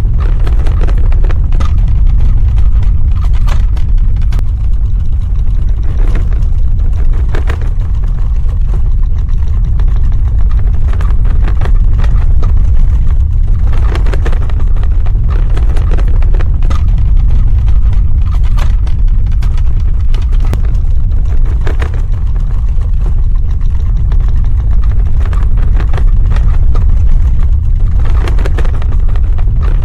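Earthquake sound effect: a loud, continuous deep rumble with scattered clicks and knocks over it.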